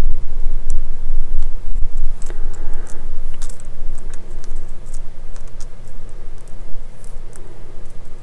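Small scattered clicks of a tiny screwdriver and plastic model parts being handled while a small screw is worked in, over a steady low hum that eases off about halfway through.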